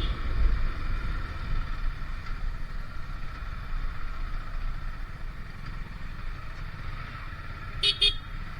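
Motorcycle riding along, a steady engine and road rumble with wind buffeting the microphone. Near the end come two short horn beeps in quick succession.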